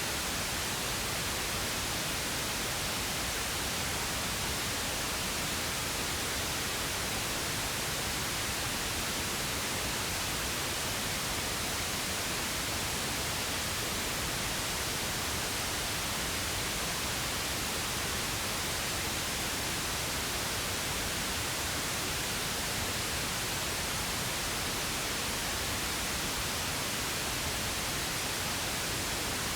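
Steady, unchanging pink noise: an even hiss across all pitches, with no events.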